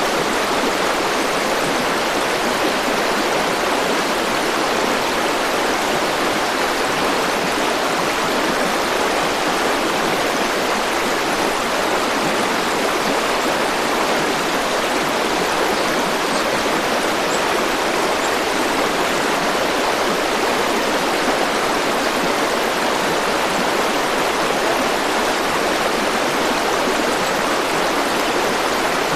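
A forest river flowing steadily, an even rushing of water.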